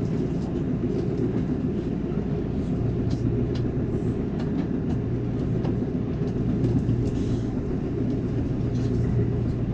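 Amtrak Cascades passenger train running at speed, heard from inside a coach: a steady low rumble of the ride with scattered light clicks and rattles.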